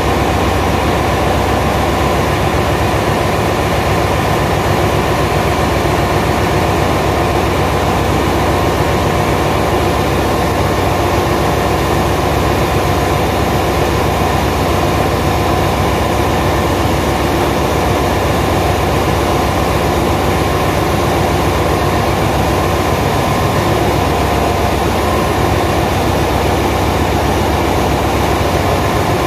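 Ship's engine-room machinery running: a loud, constant drone with steady hum bands that never changes.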